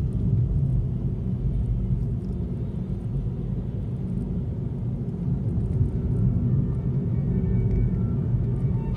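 Steady low rumble of a moving car: road and engine noise as it drives along.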